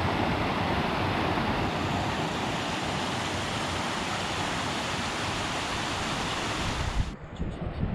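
Waterfall rushing as a steady loud roar of falling water. About seven seconds in it cuts off abruptly, giving way to a much quieter, duller background with a couple of knocks.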